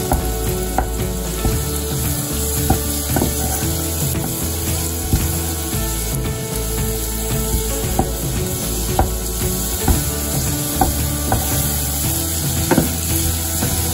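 Diced bacon, onion and blue cheese sizzling in a nonstick saucepan while a wooden spoon stirs and scrapes through them, with a sharper knock of the spoon against the pan now and then. The cheese is being worked in to melt it.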